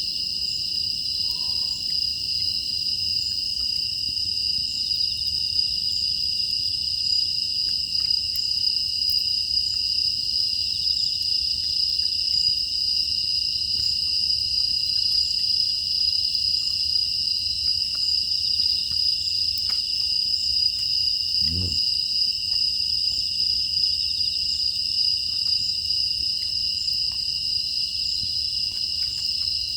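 Steady, high chirring chorus of crickets and other night insects, with faint scattered crackles from a wood fire. One short low sound comes about two-thirds of the way through.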